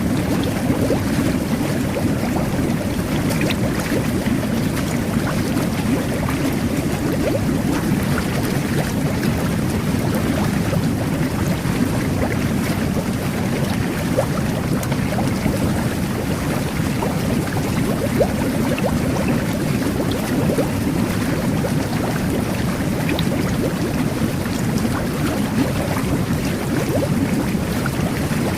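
Jet bath running: water jetting and bubbling under the surface in a steady churning wash, with small splashes and pops throughout.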